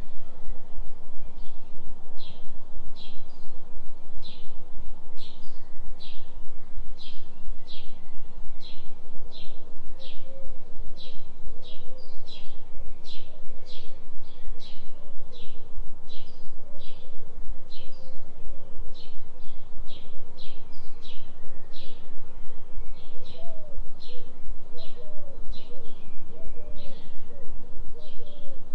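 A steady low drone of a binaural-beat tone under forest ambience: short high bird chirps repeat about once or twice a second throughout, and from about ten seconds in a lower warbling bird call joins them.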